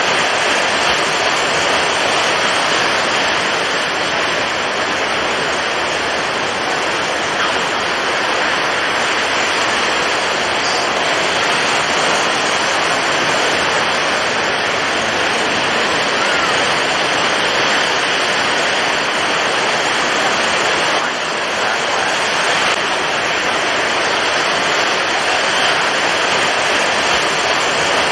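Storm at sea: strong wind and heavy surf blending into a loud, steady rush of noise, with a brief slight dip a little past two-thirds of the way through.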